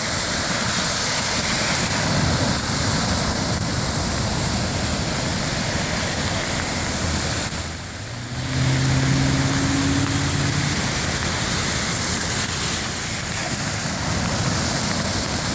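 Heavy rain and rushing floodwater, a steady loud hiss. A low hum joins briefly about halfway through.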